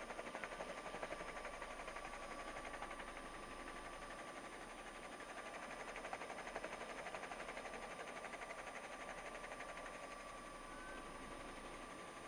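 Faint steady hiss and hum with a thin steady whine, the background noise of a police helicopter's radio and intercom audio.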